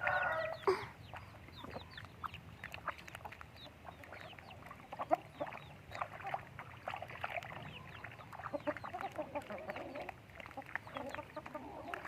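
Chickens clucking and chirping, with many short high calls and scattered clicks. A rooster's crow trails off in the first moment, and lower clucks come more often near the end.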